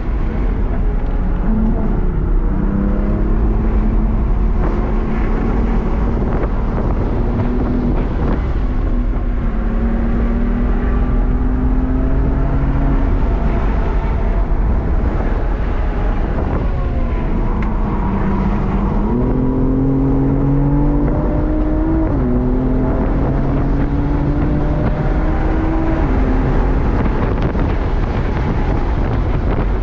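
In-cabin sound of a BMW M4 Competition's twin-turbo inline-six being driven hard on a race track. The engine note climbs in pitch again and again, falling back between climbs, and eases off for a few seconds about halfway through before climbing twice more. Steady wind and tyre noise runs underneath.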